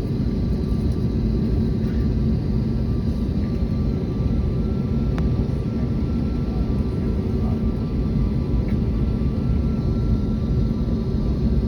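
Airbus A321neo jet engines running with a steady drone: a heavy low rumble with a few faint steady whining tones that neither rise nor fall. A single light click about five seconds in.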